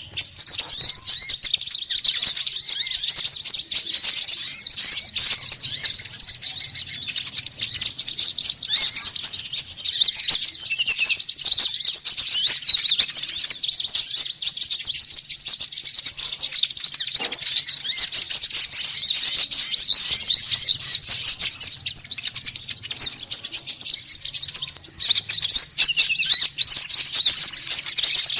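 Bird-lure recording of many small songbirds chirping and twittering over one another in a dense, unbroken high-pitched chatter.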